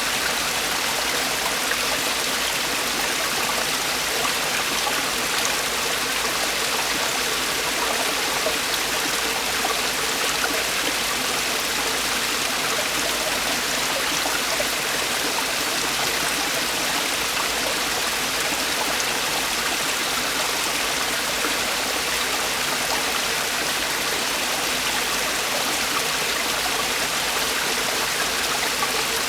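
Mountain valley stream with falling water, a steady, unbroken rush of flowing and splashing water.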